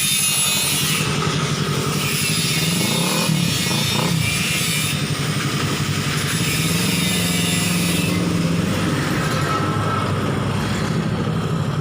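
Benelli TNT 600i's inline-four engine running through a newly fitted Two Brothers exhaust. It idles steadily, with a short rise and fall in revs about three seconds in.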